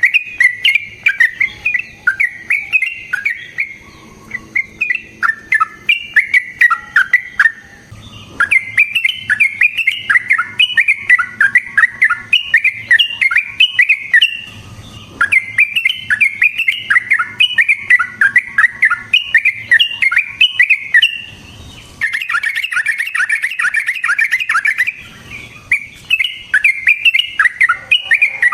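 Yellow-vented bulbul (trucukan) singing long, rapid runs of chirping notes, broken by a few short pauses.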